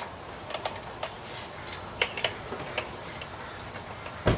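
Irregular light clicks and taps of small hard objects being handled, with a heavier thump near the end.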